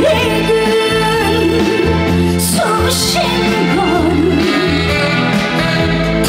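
Live trot song: a woman sings a wavering, vibrato-laden melody over a band accompaniment.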